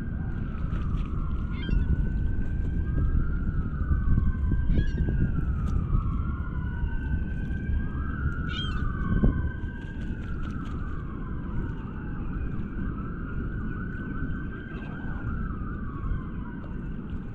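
Emergency vehicle sirens wailing, two overlapping tones sweeping slowly up and down every couple of seconds, over a steady low rumble. A few brief sharp bird calls cut in, about two, five and nine seconds in.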